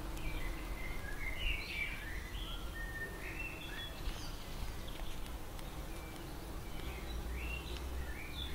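Songbirds singing: a string of short chirps and whistled phrases, rising and falling, over a steady low outdoor rumble.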